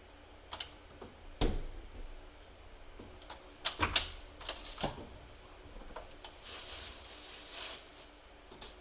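Scattered sharp clicks and knocks of hard shower trim parts being handled and fitted, the loudest cluster about four seconds in, followed by a short scraping rustle.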